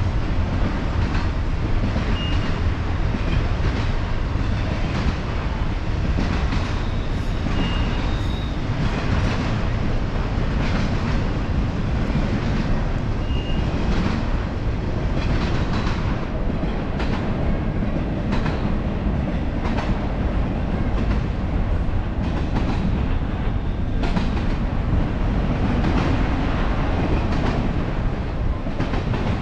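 Freight train passing close by, a steady rolling rumble with its wheels clacking over the rail joints, and a few brief high squeaks from the wheels.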